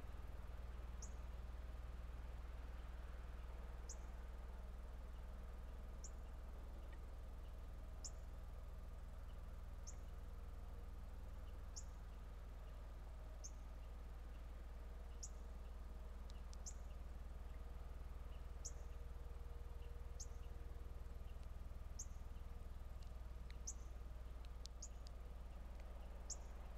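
Sharp, high chip calls of a bird, repeated about once every two seconds and sometimes doubled, faint over a steady low hum.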